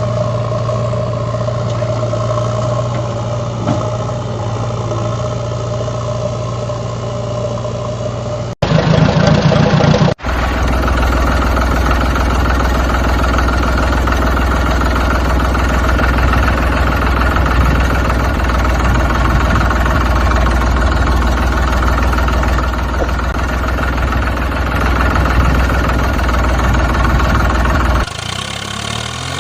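Heavy diesel vehicle engines running steadily, across several cut-together clips: one steady engine note for about eight seconds, a short louder stretch, then a deeper steady engine note that changes again near the end.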